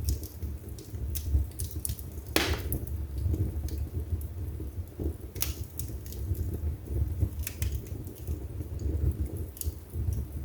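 Wood fire burning in a fireplace: a steady low rumble of flames with irregular crackles and pops from the burning logs, two of them sharper and louder, about two and five seconds in.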